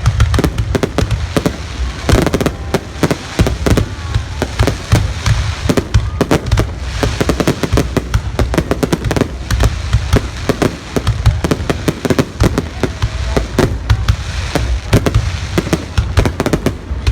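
Fireworks going off in a rapid, near-continuous barrage of bangs and crackles with a deep rumble underneath.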